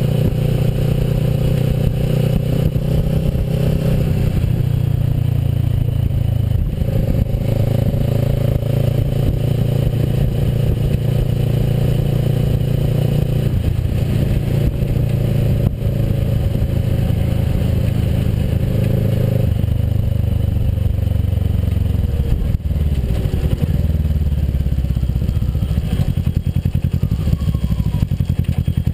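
Kawasaki Versys motorcycle engine running under way, its note stepping up and down several times with throttle and gear changes, over a steady rush of wind and road noise with some scraping and clatter.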